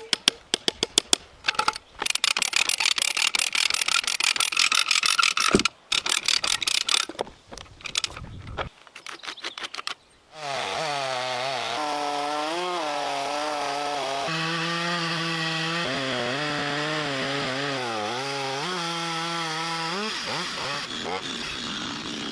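Wood being sawn in several runs with brief pauses between them. Then a chainsaw engine runs steadily for about ten seconds, its pitch wavering up and down.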